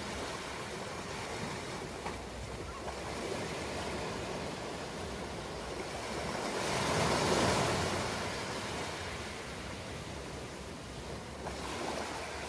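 Ocean waves breaking and washing on the shore in a steady hiss of surf, swelling to a louder crash about seven seconds in and easing back.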